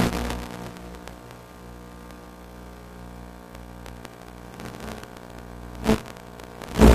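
Model aircraft's electric motor and propeller throttled back to a steady low hum, with a short surge about 6 s in and a louder one at the very end.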